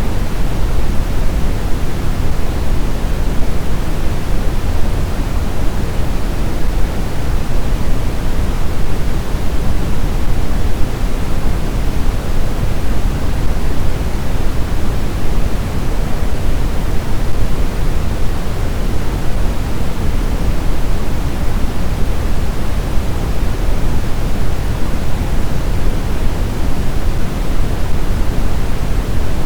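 Steady snowstorm wind ambience: an even, deep rushing noise that neither gusts nor howls.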